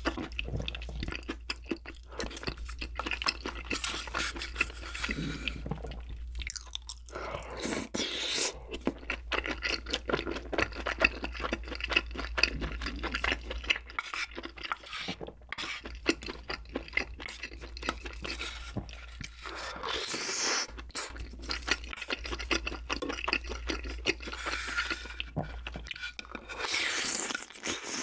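Close-miked chewing of soy-braised chicken and glass noodles (jjimdak), wet mouth sounds with many short, irregular clicks.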